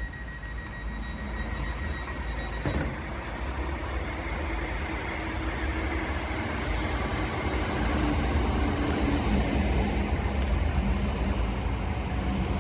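Electric passenger train coming in and running past on the adjacent track, its wheel rumble and motor hum building steadily and then holding loud. A steady high hum stops with a click about three seconds in.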